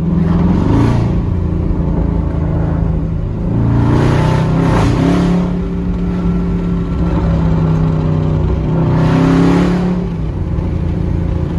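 Truck engine running while driving, with three bursts of acceleration where the pitch and loudness rise: just after the start, about a third of the way through, and again near the end.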